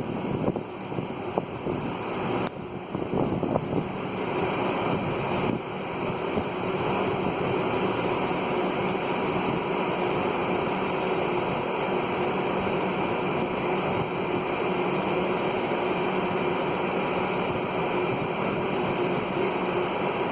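Wind rushing over a phone's microphone, uneven for the first few seconds and then steady, with a faint steady hum underneath.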